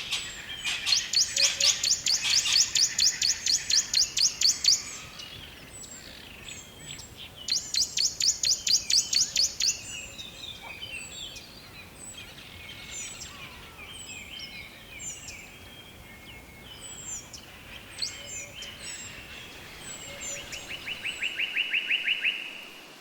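Several songbirds singing: a fast, high trill runs for about four seconds at the start and again for about two seconds a little later, with scattered short chirps in between and a lower-pitched trill near the end.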